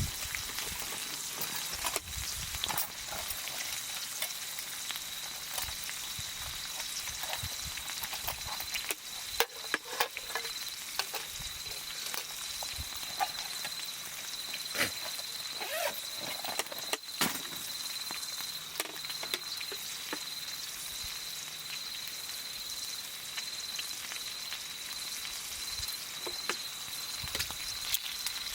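Wood campfire crackling, with scattered sharp pops over a steady hiss. A steady high-pitched tone runs underneath.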